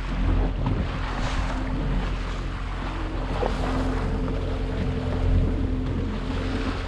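Motorboat engine running steadily at low idle, with wind buffeting the microphone and the sea's water noise over it.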